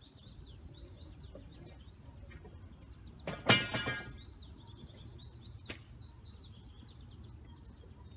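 Many songbirds chirping steadily in the background. About three and a half seconds in there is one loud, harsh cry lasting under a second. A sharp click follows a couple of seconds later.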